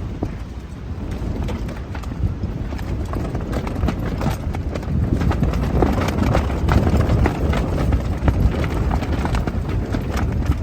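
Strong wind buffeting the microphone with a heavy low rumble that grows stronger past the middle, over a dense run of irregular sharp taps and rattles.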